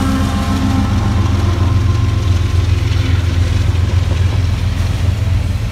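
Freight train passing close by: a Union Pacific diesel locomotive's engine drone fades within the first second as it moves off, and a steady low rumble of autorack cars rolling past continues.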